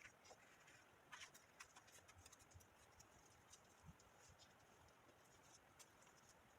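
Near silence broken by faint, scattered light taps and scratches of cardstock being handled and folded, more of them in the first two seconds.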